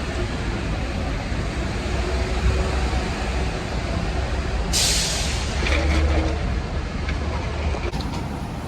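Steady low rumble of background noise, with a sudden short hiss a little before five seconds in that fades over about a second.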